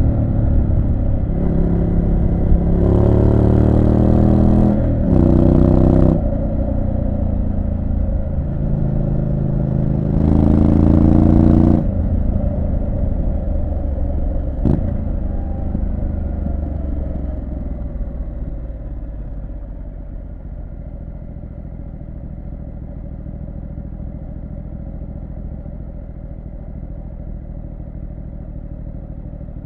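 Triumph Street Scrambler 900's parallel-twin engine pulling hard twice, rising in pitch about three seconds in and again about ten seconds in. It then eases off and runs quieter and steady at low revs through the second half, with one sharp click partway through.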